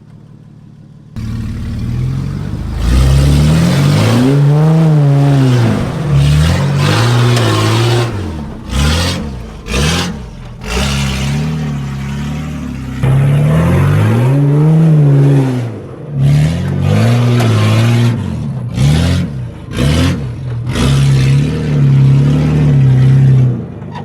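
Nissan GQ Patrol's carburetted TB42 straight-six with no exhaust, revved up and down over and over. The pitch climbs and falls in a string of rev surges with short drops between them, starting suddenly about a second in.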